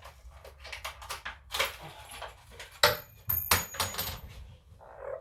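Small metal hardware, a molly anchor and hook, clinking and rattling as it is handled. There is one sharp metallic clink about three seconds in that rings briefly.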